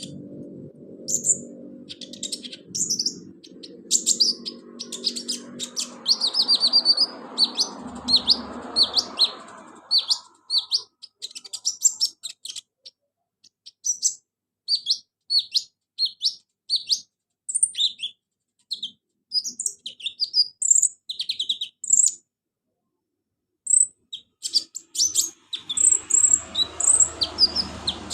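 Kolibri ninja (konin) sunbird singing: rapid series of high, thin chirps and twittering notes, broken by short pauses. A low background hum sits under the song for the first ten seconds and returns near the end.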